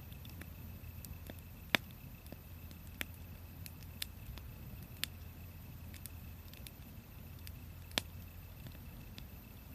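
Wood fire crackling, with scattered sharp pops; the loudest come a little under two seconds in and about eight seconds in.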